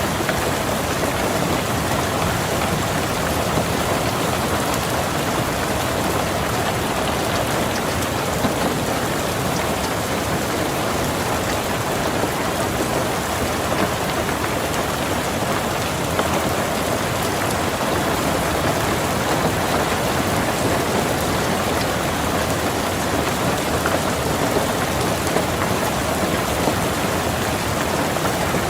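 Steady rain pattering on a car's roof and windows, heard from inside the car: an even, dense patter with a few slightly louder drops here and there.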